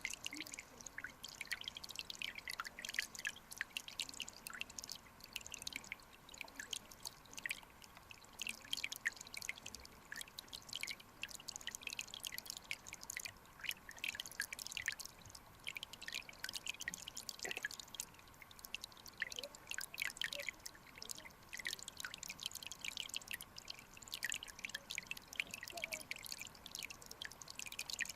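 Mountain stream water trickling and splashing: a steady stream of small drips and bubbling clicks over a faint hiss, with a faint steady hum underneath.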